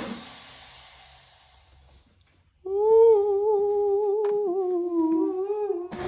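A person humming a few held notes with small changes in pitch, starting about three seconds in. Before that, a steady mechanical drone fades away over the first two seconds.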